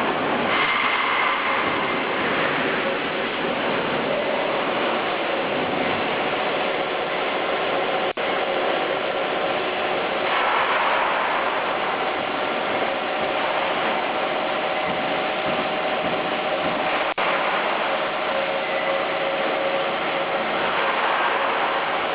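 Steady, dense mechanical clatter of workshop machinery, broken by two brief sharp dropouts about 8 and 17 seconds in.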